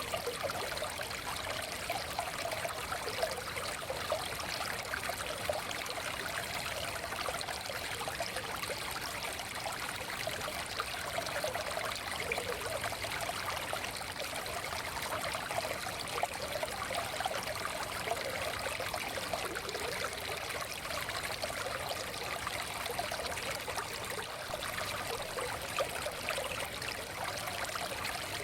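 Shallow forest stream flowing steadily, a continuous babbling and trickling of water over stones.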